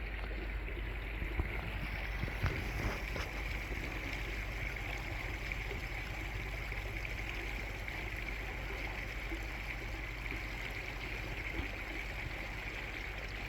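Floodwater running steadily along a street and into drains, a continuous rushing and gurgling of water, with a few faint knocks in the first few seconds.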